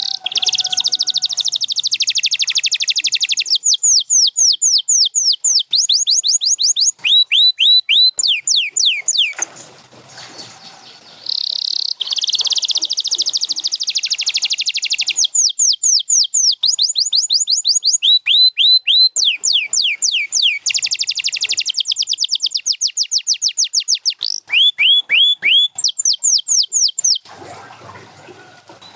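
Domestic canary singing: long phrases of fast buzzing rolls alternating with rapid runs of downward-sweeping whistled notes. Two long song bouts, with a short pause about ten seconds in and a quieter gap near the end.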